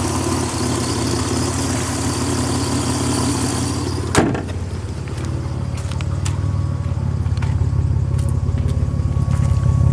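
Nissan 300ZX's turbocharged 3.0-litre V6 idling steadily, with a hiss over the low engine note. A single sharp knock comes about four seconds in, after which the exhaust's low, pulsing idle grows louder toward the end.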